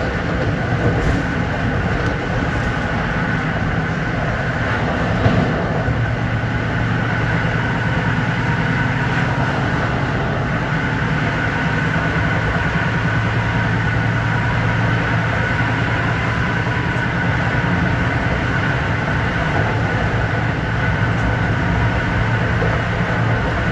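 LIRR M3 electric multiple-unit train running steadily: a continuous rumble of wheels on rail with a constant hum and steady high tones from the running gear. There is a single brief knock about five seconds in.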